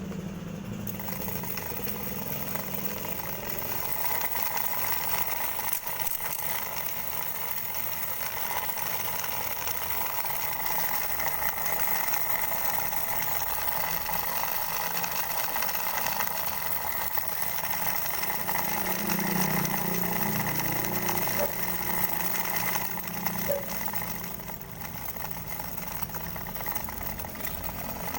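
Small DC motor spinning a length of wire that slaps against a piece cut from a drink can, making a fast, steady rattle that imitates an idling diesel engine.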